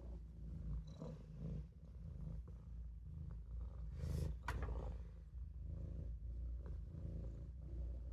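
Maine Coon kitten purring steadily, close to the microphone. A short, sharp click comes about four and a half seconds in.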